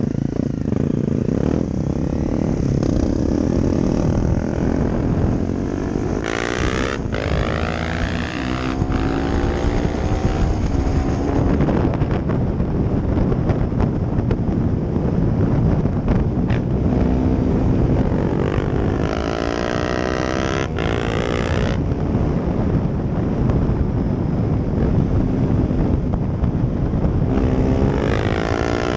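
Honda CRF250L's single-cylinder four-stroke engine through an aftermarket Yoshimura exhaust, riding past several times, its engine note climbing as it revs and approaches and then dropping away as it passes.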